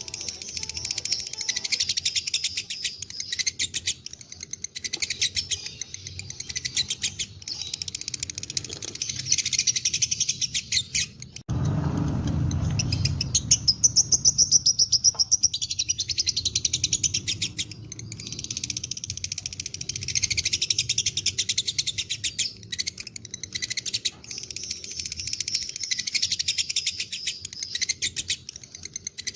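Lovebirds singing 'ngekek': long runs of very rapid, high-pitched chattering notes, broken by short pauses. About a third of the way in, the background changes suddenly and a low rumble sits under the calls for a few seconds.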